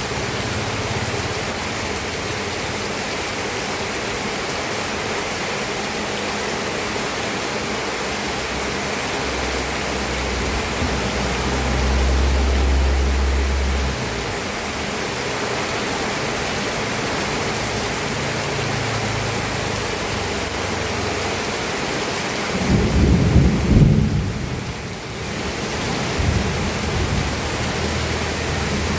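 Steady rain falling, with thunder rolling underneath: a low rumble swells about a third of the way in, and a louder, rougher peal of thunder comes about three quarters of the way in before fading into a lower grumble.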